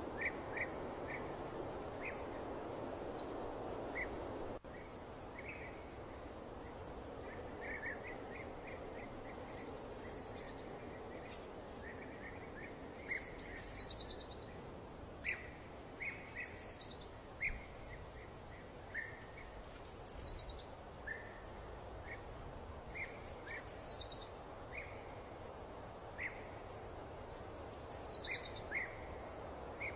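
Birds chirping and singing over a steady background noise, with a short falling high phrase repeated every two to three seconds. The background noise drops suddenly about four and a half seconds in.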